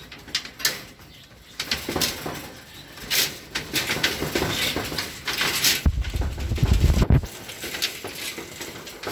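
Pet cage birds calling in many short, sharp notes, with a low rumble lasting about a second, about six seconds in.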